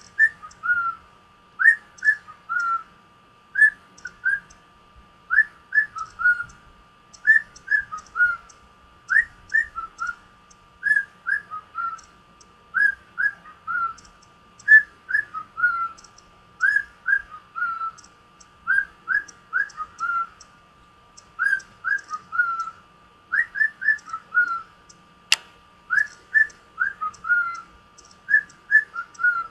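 Gray male cockatiel whistling a short phrase of quick, rising and falling notes over and over, about a phrase every second or two. A single sharp click about 25 seconds in.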